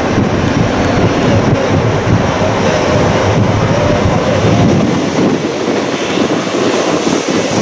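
Loud, steady roar of a jet airliner's engines, with wind buffeting the microphone.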